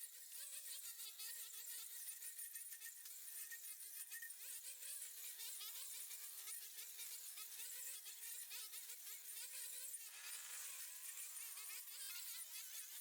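High, thin buzz of a small high-revving engine whose pitch keeps wavering up and down, over a steady hiss with fine crackling.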